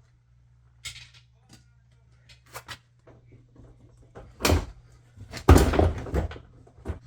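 Scattered clicks and knocks of hands and tools working on a Land Rover LR3 door being dismantled, with louder clattering knocks about four and a half seconds in and again from about five and a half seconds.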